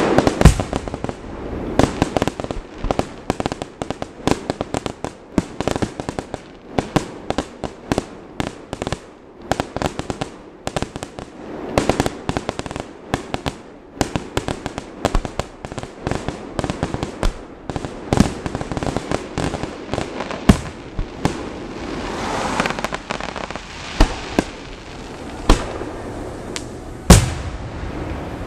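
Aerial fireworks display: a rapid, dense string of shell bursts and pops, thinning out after about twenty seconds to single louder booms a second or two apart, with a stretch of crackling between them.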